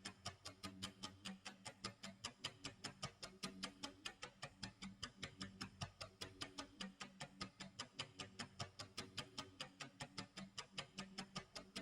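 Clock tick-tock sound effect: faint, evenly spaced ticks about four a second, with a low hum underneath.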